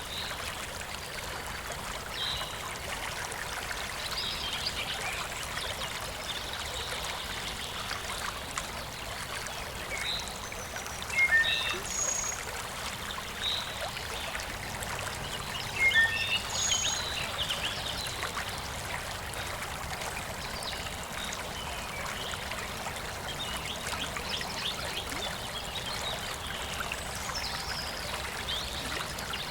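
A stream trickling and flowing steadily, with birds chirping now and then, loudest a little past a third of the way in and again just past halfway.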